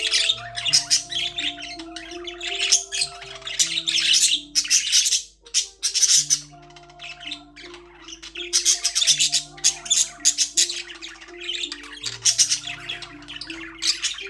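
Budgerigars chirping and chattering in rapid, busy bursts, over background music of slow, stepping low notes.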